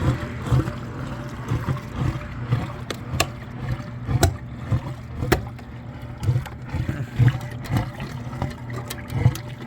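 Water gurgling and splashing out of a waterlogged dryer vent duct as air is blown through it, over the steady hum of a running blower motor. Irregular gurgling pulses throughout, with a few sharp clicks in the middle.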